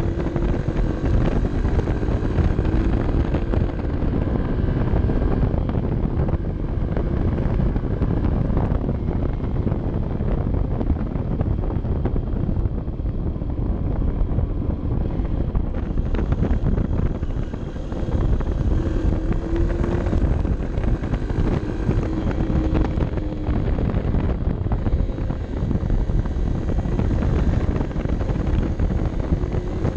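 Honda CB 125 F's single-cylinder four-stroke engine running on the move, its note rising and falling as the revs change, under heavy wind noise on the microphone.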